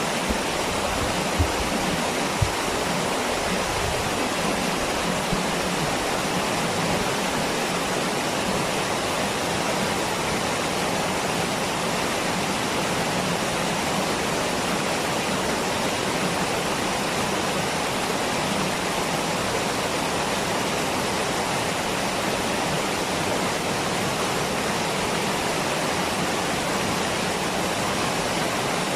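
Waterfall rushing: a steady, unbroken roar of falling water. A few brief low thumps sound in the first few seconds.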